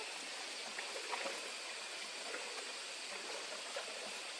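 Steady rushing of a flowing stream, with a few faint ticks and splashes.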